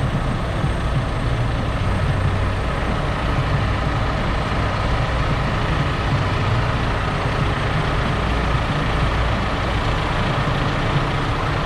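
John Deere 6R 175 tractor's six-cylinder diesel engine running steadily under way, with its AutoPowr transmission droning, heard from inside the cab.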